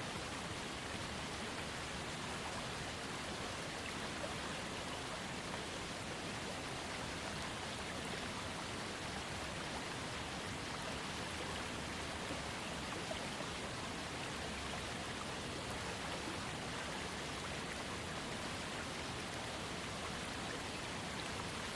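Waterfall on a small creek: a steady, even rush of falling and trickling water.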